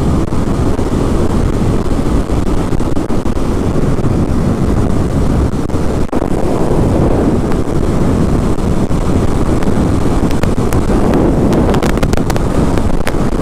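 Heavy wind buffeting on the microphone from a motorcycle ridden at highway speed, a loud steady rush, with a few sharp clicks near the end.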